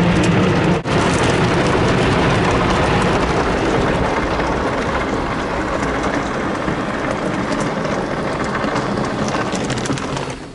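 Water spraying and drumming on a car inside a Ryko SoftGloss XS automatic car wash: a steady, loud, rain-like rush with a momentary break about a second in. The spray cuts off suddenly near the end.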